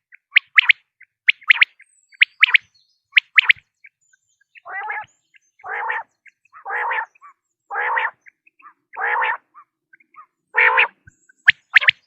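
Common quail calling: quick groups of short, sharp, high notes about once a second, then a run of six lower, harsher calls about a second apart, and the sharp notes again near the end.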